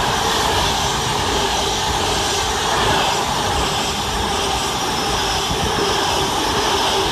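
Avanti West Coast Class 390 Pendolino electric train passing close at speed: a loud, steady rush of noise as its coaches go by.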